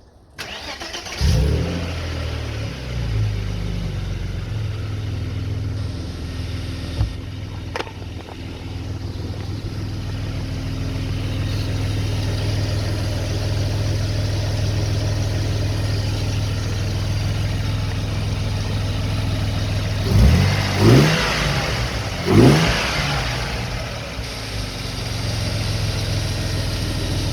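Vauxhall Omega engine starting about a second in and then idling steadily on its freshly changed oil, blipped twice in quick succession about twenty seconds in.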